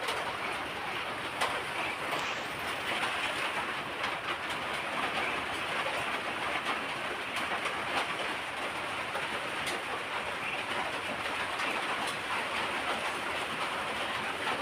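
A flock of ducks feeding, many bills dabbling and snapping at once in a steady rustling noise with scattered sharp clicks.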